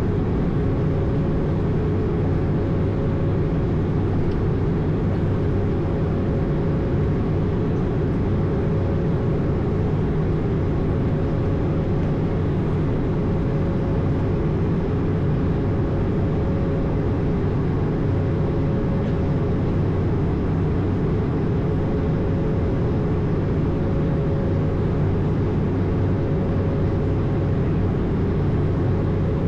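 Steady in-flight drone on the flight deck of an Airbus A220: airflow and engine noise with a constant low hum and a faint steady tone above it.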